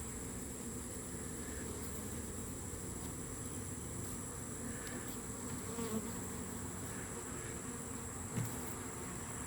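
Honey bees buzzing as a steady hum around an open hive, with a faint knock about eight seconds in.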